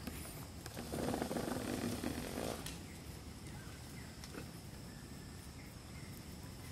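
A horse gives a low, rough breathy sound lasting about a second and a half, starting about a second in, followed by a few faint clicks.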